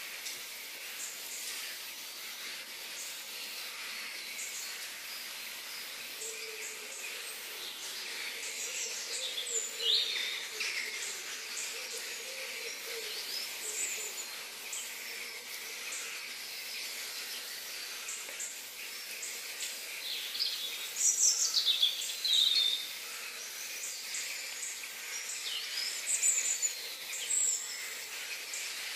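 Outdoor nature ambience: birds chirping and calling over a steady high hiss of insects, with louder bursts of birdsong about a third of the way in, around two-thirds through, and again near the end.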